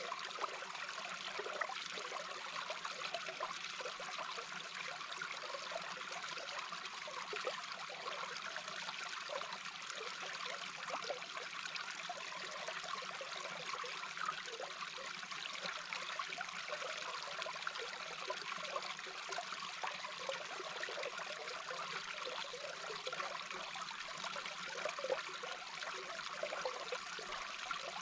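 Small brook heard underwater: a steady rush of flowing water with irregular bubbling and gurgling.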